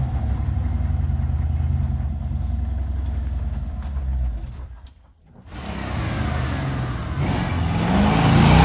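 Off-road rig's engine running at low revs on a rock trail climb. The sound drops out briefly about five seconds in, then returns and revs up louder near the end.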